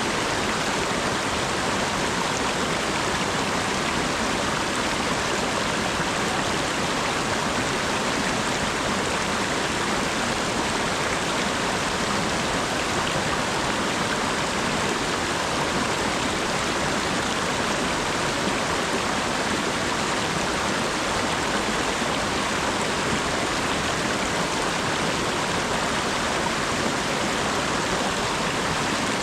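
Steady rain falling, a dense, even hiss with no single drops standing out and no change in strength.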